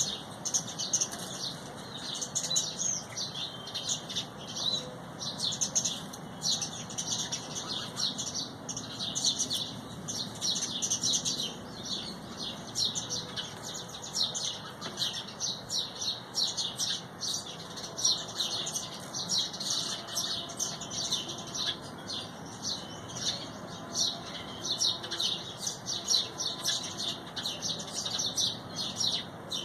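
Many small birds chirping at once: a dense, continuous chatter of short high chirps, several a second, overlapping without a break.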